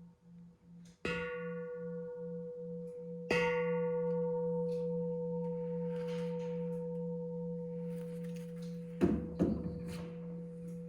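Bell-like struck tones ringing out twice, each note held, over a low hum that pulses about three times a second at first and then holds steady. Two brief knocks come near the end.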